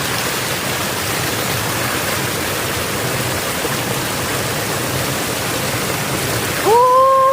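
A small forest waterfall of cold meltwater rushing steadily. Near the end a brief, loud voice sound rises and holds over it.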